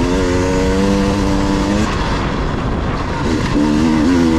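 Enduro dirt-bike engine running at a steady pitch for about two seconds, easing off, then holding a steady note again near the end.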